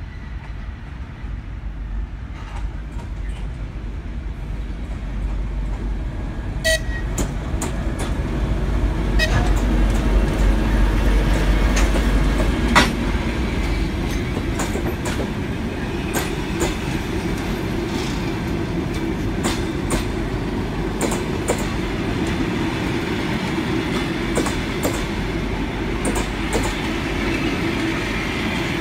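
Diesel-hauled passenger train passing close by. The locomotive's low engine rumble builds and is loudest about ten to twelve seconds in. The carriages then roll past with repeated clicks of the wheels over the rail joints.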